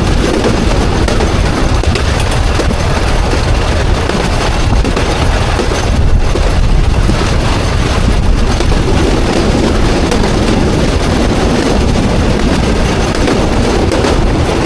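Train running along the track: a loud, steady rumble of wheels on rail.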